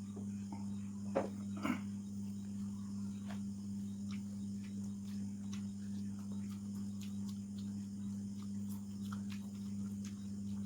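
Mukbang eating sounds: scattered soft clicks and smacks of chewing and of food being handled on a plate, with two sharper clicks about a second in, over a steady low hum.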